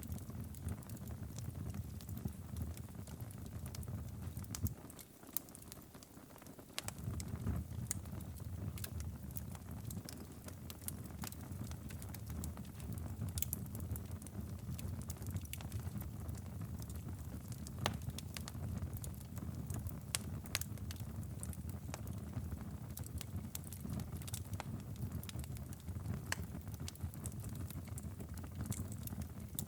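Wood fire crackling in a fireplace: scattered sharp pops and snaps over a low steady rumble, which drops away for a couple of seconds about five seconds in.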